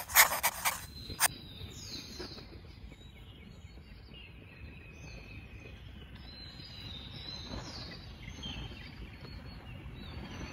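Birds chirping over a steady low background rumble, with a few sharp clicks and knocks in the first second or so.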